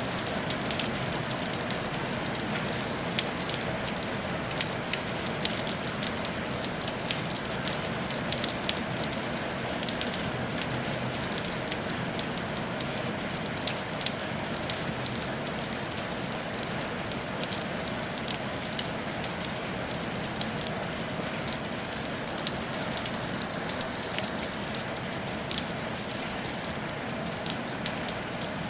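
Steady rain falling on a tile roof: an even hiss with a constant patter of small drop ticks.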